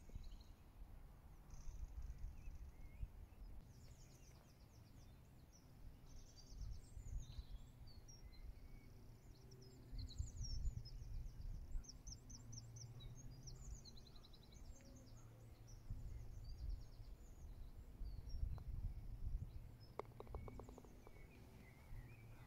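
Songbirds chirping and trilling over a gusty low rumble of wind on the microphone, with a short run of faint clicks near the end.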